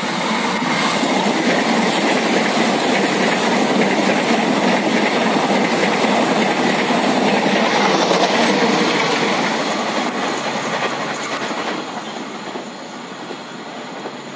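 A passenger multiple-unit train running past close by on the rails, a steady loud rush of wheel and rail noise that builds, is loudest through the middle, and eases off as the train moves away.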